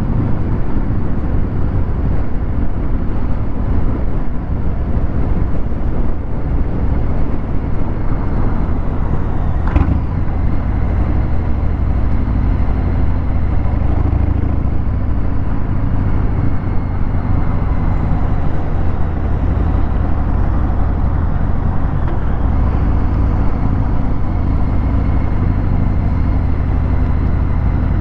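Harley-Davidson Fat Bob 114's Milwaukee-Eight V-twin running steadily through a Vance & Hines Hi-Output 2-into-1 exhaust while riding. There is one short sharp click about ten seconds in.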